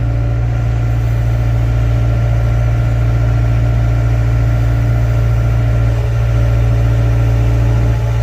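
Excavator's diesel engine running steadily with a loud, even low drone.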